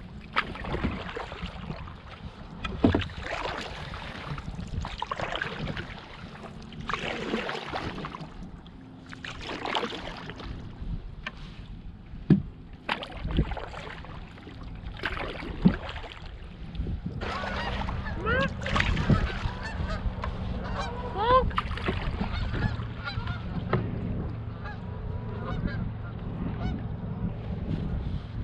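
Honking bird calls, bunched in the second half, over irregular sharp knocks and splashes.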